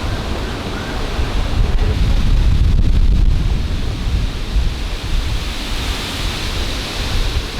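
Gusty wind buffeting the microphone during a thunderstorm, a loud, uneven low rumble over a steady rushing hiss.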